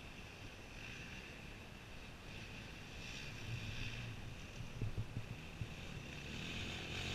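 Distant off-road motorcycle engine, faint at first and growing louder toward the end as it approaches.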